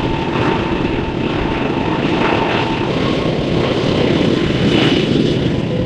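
Jet aircraft engine running loud and steady, a dense rushing noise with a constant high whine, swelling a little near the end.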